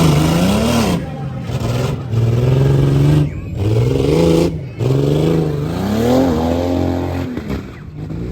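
Tough truck engine revving hard over and over, its pitch climbing and dropping repeatedly as the truck runs the course.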